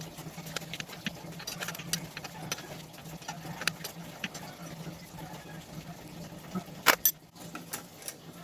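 Small metal clicks and clinks of automatic-transmission parts being handled during teardown, with a louder pair of clanks about seven seconds in, over a steady low hum.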